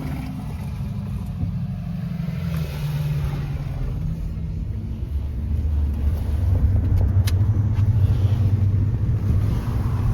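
Dual-mode locomotive's diesel engine running with a deep rumble. Its note steps down in the first few seconds, then the rumble grows louder through the second half.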